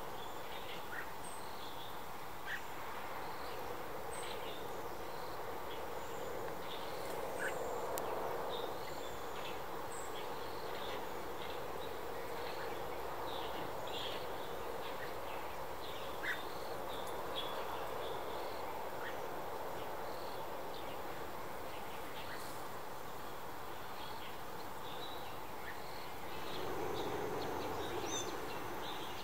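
Many short, scattered bird chirps over a steady background hum, a little louder near the end.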